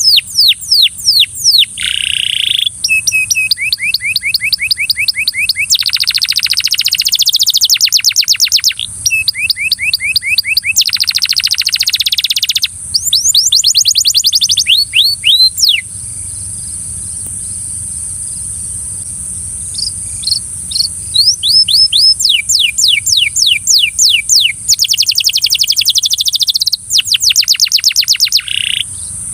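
Belgian canary singing: phrase after phrase of fast, evenly repeated high notes and rolling trills, breaking off for a few seconds about halfway through and then starting again.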